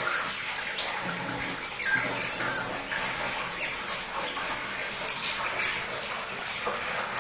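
White-eye (pleci) in full song: a quick run of falling high notes at the start, then short, sharp high chirps about every half second over constant twittering.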